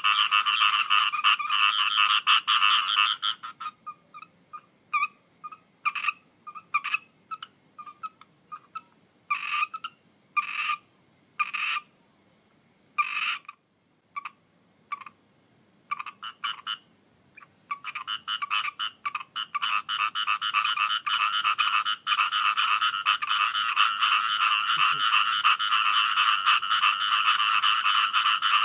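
A chorus of frogs croaking rapidly and densely. A few seconds in, the chorus breaks off into scattered single calls and briefly falls almost silent. It builds back to a full chorus in the second half.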